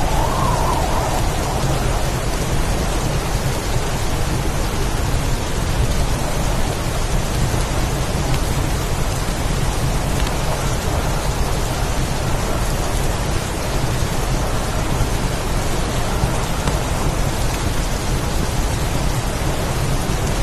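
Heavy rainstorm: steady, dense rain with a continuous low rumble underneath.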